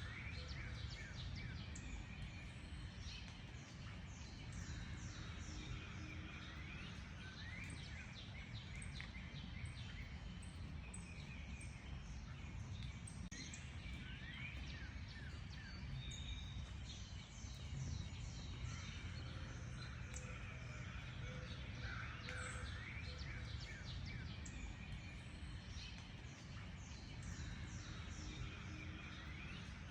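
Several birds chirping and singing, many short high chirps in quick runs throughout, over a steady low background rumble.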